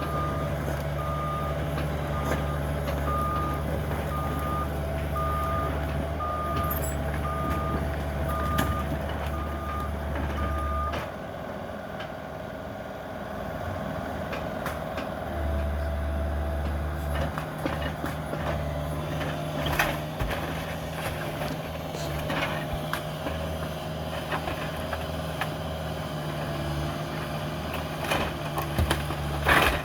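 Cat 305 mini excavator's diesel engine running, with its backup/travel alarm beeping steadily about twice a second for roughly the first eleven seconds. The engine's low hum then drops back and picks up again a few seconds later, and scattered knocks and cracks of demolition debris come in toward the end.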